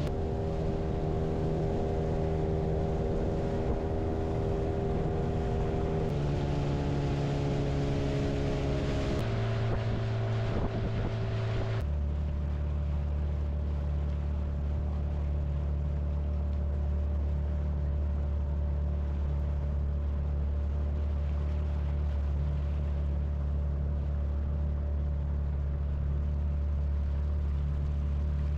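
Motorboat engine running steadily under way, its note shifting abruptly a few times in the first twelve seconds and holding steady after that.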